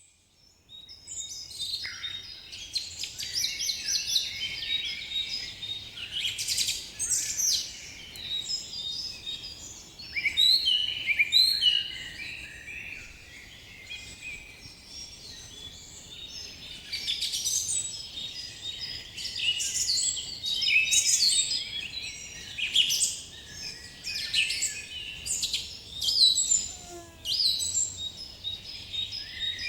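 Chorus of several small songbirds chirping and singing at once, a dense, overlapping run of short high calls and trills that starts about a second in.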